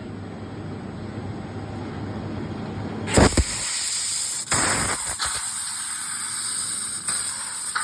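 Fibre laser cutting mild steel with a compressed-air assist gas jet. A low rumble builds at first, then a loud, steady hiss of air and cutting starts suddenly about three seconds in, with brief breaks as the cut restarts.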